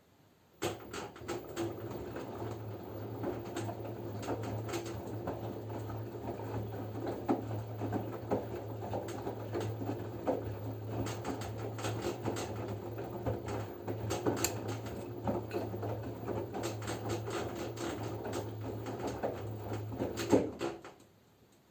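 LG F10B9LD front-loading washing machine in its wash phase, turning the drum: a steady motor hum with laundry tumbling and knocking. It starts about half a second in and stops about a second before the end, one tumbling spell between pauses of the drum.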